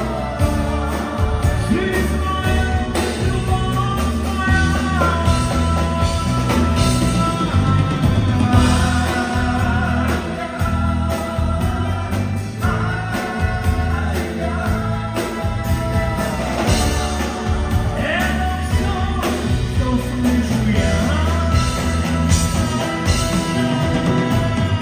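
A live rock band plays loud, with a sung melody over guitar, bass and a steady beat.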